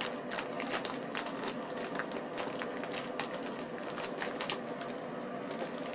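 Plastic candy-bar wrapper crinkling and crackling in a series of irregular clicks as it is pulled and twisted by hand, a wrapper that is hard to open.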